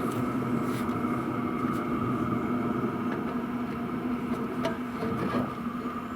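Diesel air heater running steadily, its exhaust fed through a silencer: an even hum with a low tone and a higher whine over a rushing noise, with a few faint clicks.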